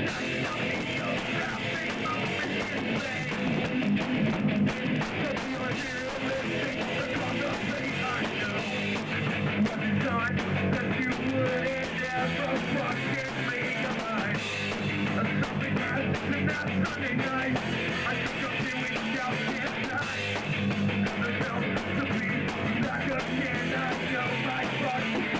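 Punk rock band playing live, with electric guitar, loud and continuous throughout.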